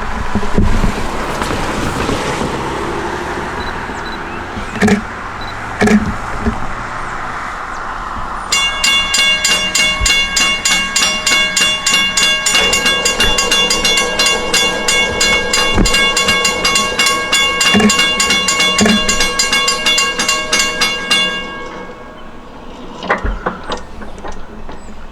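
A diesel-hauled passenger train rolling past at speed, with two sharp knocks about five and six seconds in. About eight seconds in, the rear DM30AC locomotive's K5LLA five-chime horn sounds one long chord for about thirteen seconds, then cuts off.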